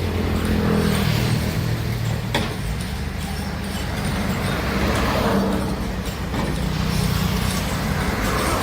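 Diesel engine of heavy earthmoving machinery running, its pitch rising and falling as it works. A single sharp knock about two and a half seconds in.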